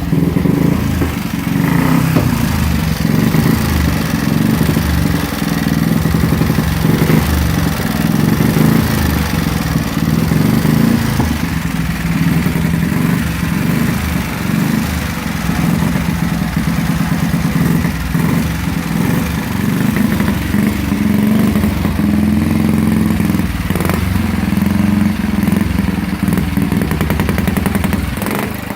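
1920s grasstrack motorcycle's 350cc four-valve Rudge single-cylinder engine running loudly, its speed rising and falling, with a brief dip near the end.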